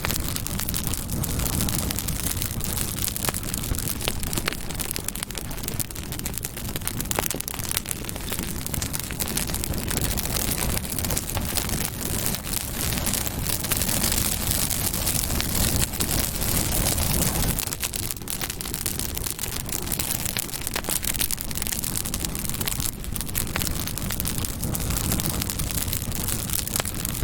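Campfire burning: dense, continuous crackling with many small pops over a low rush of flame.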